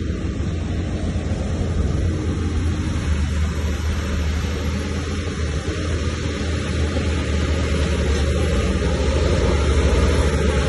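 Diesel engine of heavy earthmoving machinery running steadily with a deep, continuous rumble, getting slightly louder near the end.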